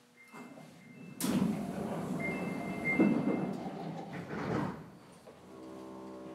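Sapporo Municipal Subway 5000 series car doors sliding, a sudden noisy rush lasting a few seconds that follows a short high electronic tone. A steady hum of several pitches sets in near the end.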